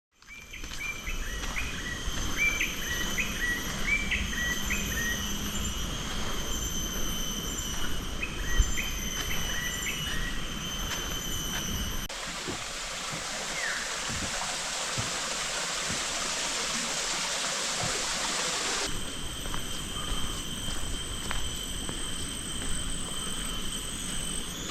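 Tropical rainforest ambience: steady insect trilling at several high pitches, with a bird giving repeated short, falling chirps during the first ten seconds. From about 12 to 19 seconds a louder, even hiss takes over, starting and stopping abruptly.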